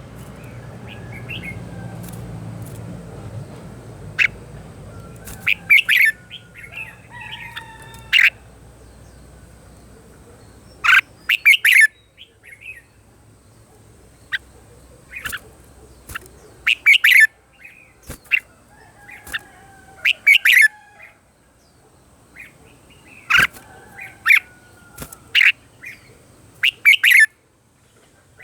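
Red-whiskered bulbul singing: short, sharp whistled phrases repeated in clusters every second or two, with a faint low rumble underneath for the first few seconds.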